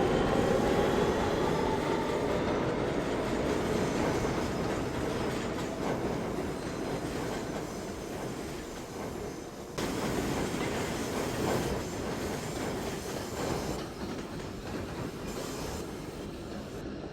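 New York City subway train pulling out of the station. The traction motors whine, rising in pitch for the first second or so, then the wheels rumble and clatter on the rails with some wheel squeal. The rumble grows suddenly louder about ten seconds in.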